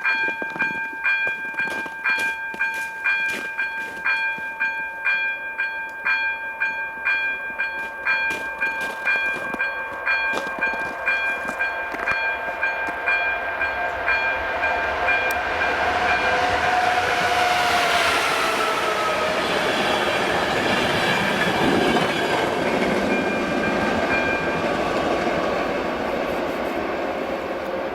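Electronic warning bell of an AŽD 97 level-crossing signal ringing in a steady beat of about two strokes a second. About halfway through, a train's rumble and wheel noise swells over it and peaks with a falling tone as the train passes, then eases near the end while the bell keeps ringing.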